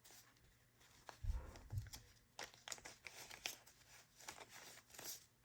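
Faint rustling and light clicks of paper bills and envelopes being handled, with two soft low thumps about a second and a half in.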